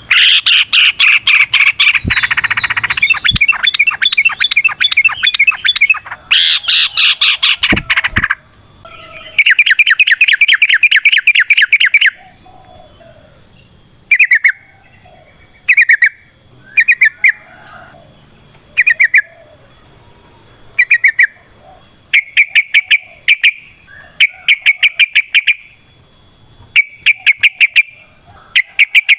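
Yellow-vented bulbul singing its rapid chattering 'ropel' song: a long dense run of quick notes for the first dozen seconds or so, then short bursts of chatter repeated every second or two.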